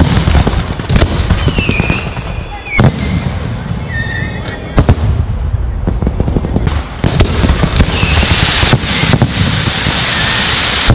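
Fireworks display: aerial shells going off in a string of sharp bangs over a continuous crackle. From about seven seconds in, a dense hissing crackle joins as fans of ground-fired comets go up.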